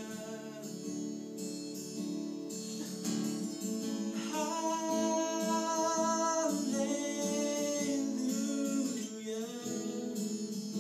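Acoustic guitar strummed under a voice singing long held notes with no clear words, part of a worship song.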